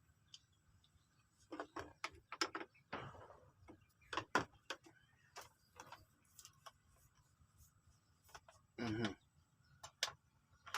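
Scattered light clicks and taps of small parts being handled, with one short, louder noise about nine seconds in.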